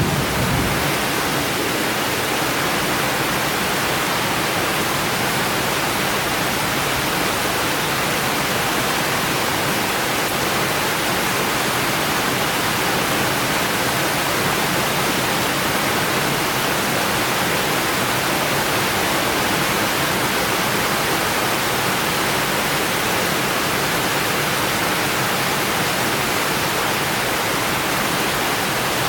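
Heavy summer rain falling steadily, an even hiss. The tail of a low thunder rumble dies away in the first second.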